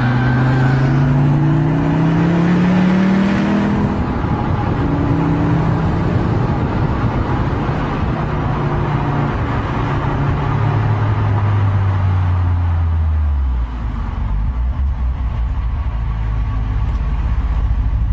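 Car engine pulling up through the revs for the first few seconds, then running steady, easing off with falling revs from about ten seconds in, and settling to a low steady idle near the end.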